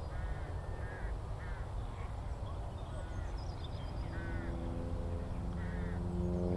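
Crows cawing, several separate harsh calls about a second apart, over a low outdoor rumble with faint high birdsong. About four seconds in, a steady drone of several pitches comes in and grows louder.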